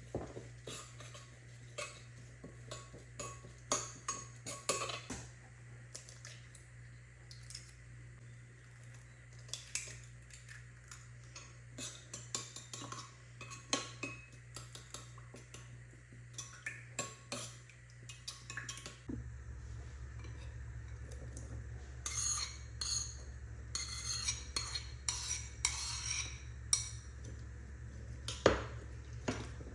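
Cutlery and dishes clinking and knocking during kitchen food preparation: many short, irregular taps of utensils against bowls and plates. A steady low hum sits underneath.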